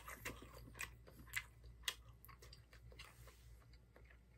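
A person chewing a mouthful of mushroom with wet mouth clicks, faint and close, about twice a second at first and thinning out after about two seconds.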